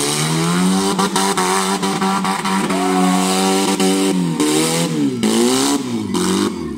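Demolition-derby car engine revving hard: it climbs, holds at high revs for about three seconds, then its revs drop and surge up and down near the end. A few short knocks come through early on.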